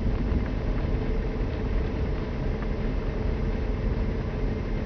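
A steady low rumble with a faint, even hum above it and a few light ticks, unchanging throughout.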